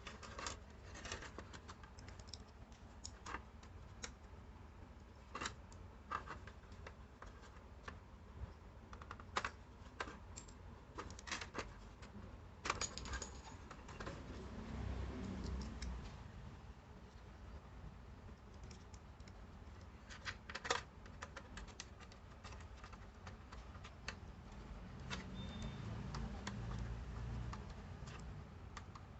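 Irregular light clicks and taps, as of small objects being handled and set down, with two stretches of low rumble, one about halfway through and one near the end.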